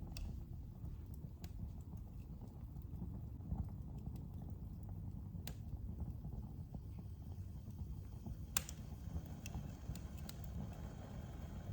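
Wood fire in a fireplace crackling: a low, steady rush of burning with scattered sharp pops and clicks, the loudest about two-thirds of the way in.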